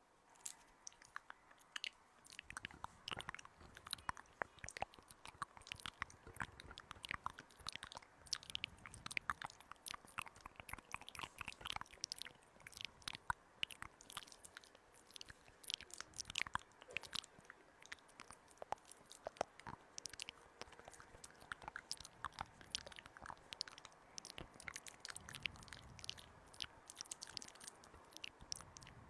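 Close-miked ASMR trigger sounds: dense, irregular crisp crunches and clicks that start about two seconds in and go on throughout.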